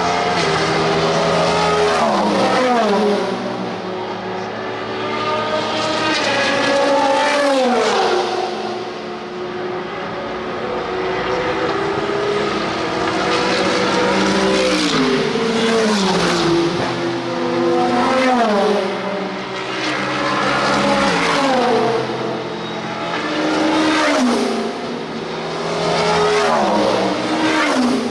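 A stream of IMSA sports-prototype and GT race cars passing at speed one after another, about a dozen in all. Each engine note drops in pitch as the car goes by, and the loudness swells with each pass.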